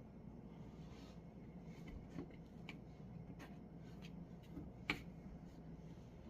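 LG Tromm clothes dryer running with a steady low hum, with scattered light clicks and one sharper click about five seconds in.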